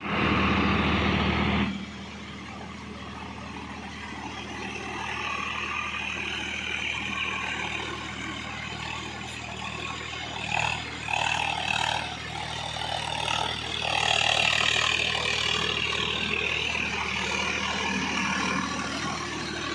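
Swaraj tractor's diesel engine running with a steady low hum. It is loudest for the first couple of seconds, then drops, and other uneven noise swells over it in the second half.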